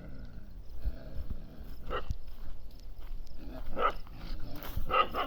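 Dogs barking during a scuffle with a stray dog: a few short, separate barks about two, four and five seconds in.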